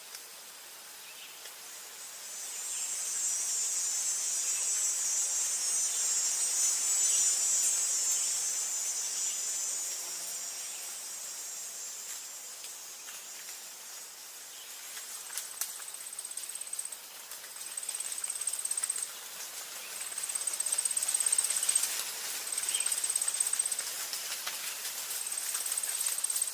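Forest ambience dominated by insects: a high, shrill insect buzz swells in about two seconds in and fades out after about ten seconds, then a high trill starts repeating in bursts of a second or two with short gaps.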